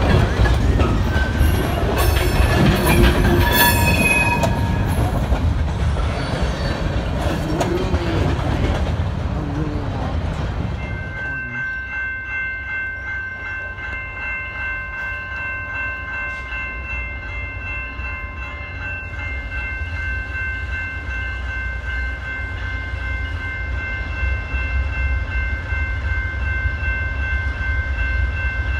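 Freight cars roll past with wheel clatter and squeal over a heavy rumble. After a cut, a steady warning signal of several pitches sounds together over the lower rumble of the approaching Amtrak passenger train.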